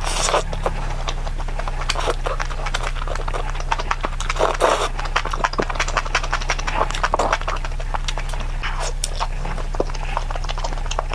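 Close-miked eating sounds: a person chewing and biting food fast, with many short wet clicks and smacks and a few louder bursts. A steady electrical hum runs underneath.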